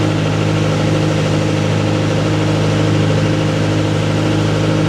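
Riverboat engine running at a steady speed.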